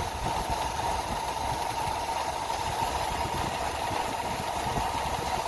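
Toyota 22RE 2.4-litre four-cylinder engine idling steadily at about 700 rpm, warmed up, with terminals T and E1 shorted for a base ignition timing check. The timing is off the 5-degree spec, firing nearer the 12-degree mark.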